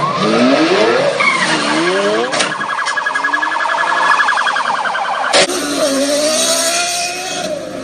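Lamborghini Aventador engine revving in several quick rising sweeps, then holding a high note with a fast rhythmic pulsing. About five seconds in, the sound cuts sharply to a second car's engine note that wavers up and down.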